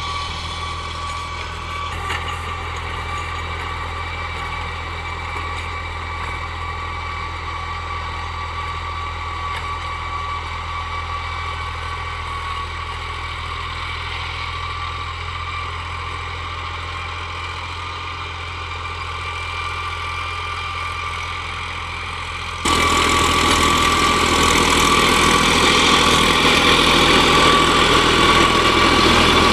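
New Holland 3600-series tractor's diesel engine running steadily. About three-quarters of the way through it suddenly becomes much louder and harsher and stays that way.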